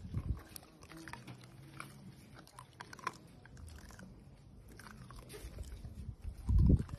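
A dachshund chewing crunchy food, with many irregular crunches and bites. A loud low thud comes near the end.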